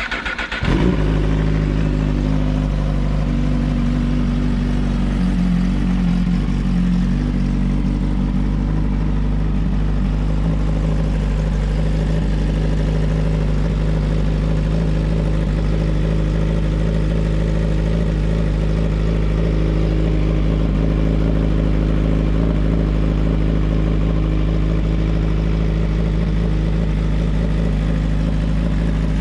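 Suzuki motorcycle engine cold-starting after about five months unused: it fires within about a second and settles into a steady idle, starting with no trouble.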